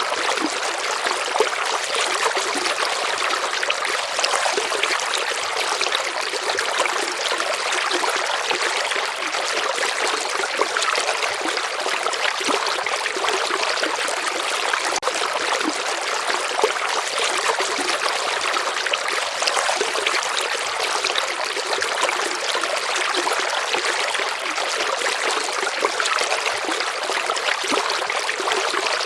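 Shallow river water flowing and trickling steadily, an even babbling rush full of tiny splashes with no deep rumble.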